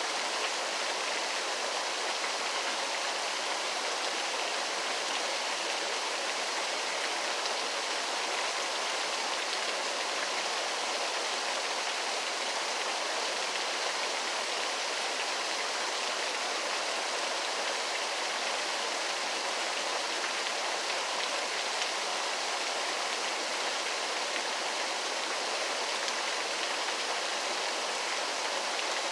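Waterfall rushing in a steady, even hiss of falling water, with no change in level.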